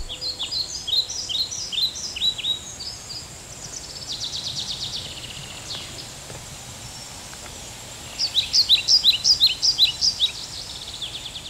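Songbird singing: a bout of quick, repeated down-slurred notes, then a fast trill, then another bout of the slurred notes about eight seconds in, over faint steady outdoor background.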